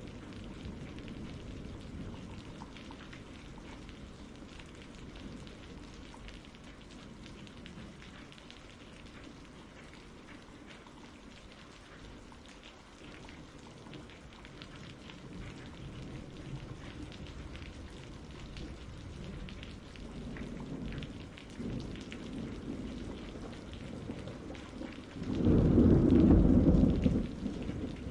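Steady rain with thunder rumbling in the distance. The rumbles swell over the last third, and a louder roll of thunder sets in near the end.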